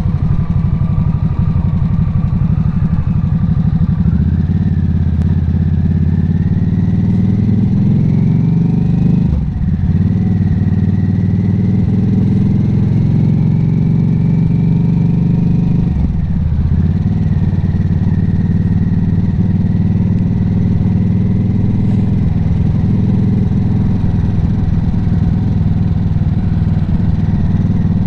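Harley-Davidson Nightster's V-twin engine under way, its pitch climbing as the bike accelerates, with two gear changes about nine and sixteen seconds in, then running steadily at cruising speed.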